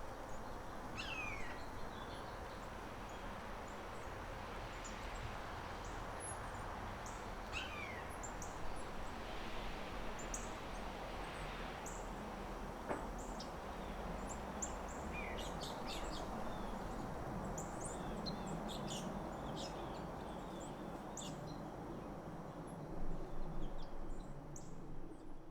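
Small birds calling outdoors: scattered short, high chips and tweets, with a few falling whistled notes, over a steady background of outdoor noise.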